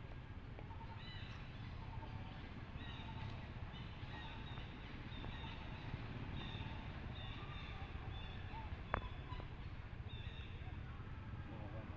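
Many short high-pitched animal calls, repeated every second or so over a steady low rumble, with one sharp click about nine seconds in.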